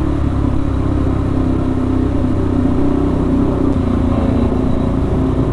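KTM RC 390's single-cylinder engine running through a cat-deleted IXIL aftermarket exhaust while the bike is ridden, holding a fairly steady engine speed.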